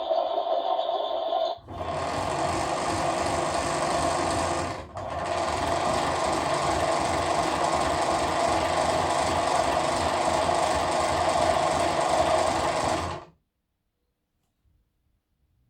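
Toy washing machine beeping with an electronic tone, then its small electric motor whirring steadily for about eleven seconds, the drum spinning, with a brief dip about five seconds in. It then stops suddenly, followed by silence and a couple of faint clicks.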